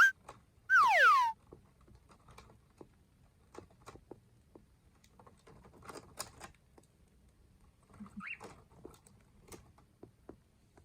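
Cockatiels gnawing on wood with their beaks: scattered, irregular crunching clicks. Early on a cockatiel gives a loud call that slides down in pitch, and about eight seconds in there is a short chirp.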